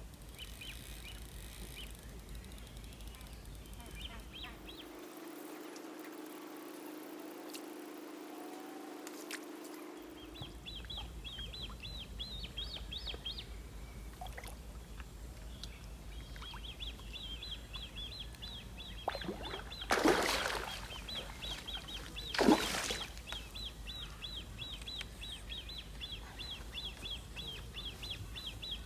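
A small bird chirping, a fast run of high notes repeated over and over, over a steady low rumble. Two loud brief noises come a couple of seconds apart about two-thirds of the way through.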